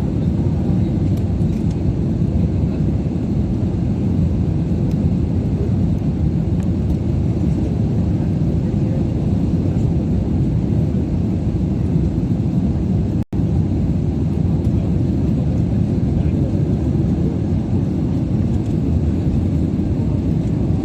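Steady low rumble of an Airbus A320 airliner's engines and airflow heard inside the cabin, broken for an instant about thirteen seconds in.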